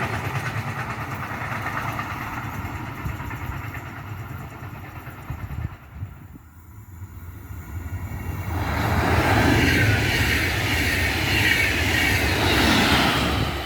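Freight wagons rolling past on the rails, the sound fading away. After a short lull, an Intercity train passes at speed, loudest near the end.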